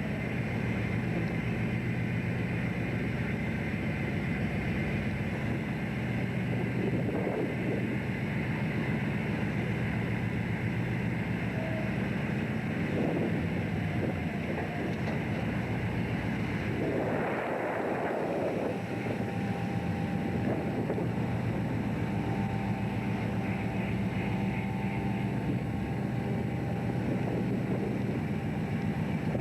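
A fishing boat's engine running steadily, with wind and sea noise; a brief rush of water or wind comes a little past halfway.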